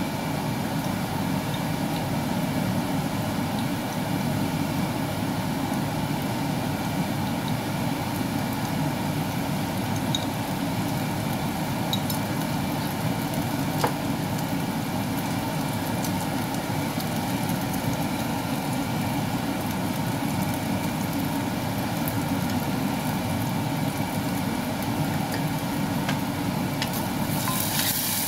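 A steady low mechanical drone is the loudest sound, with minced garlic sizzling in oil in a clay pot and crackling now and then. About halfway through, satay sauce drops into the pot with one short plop.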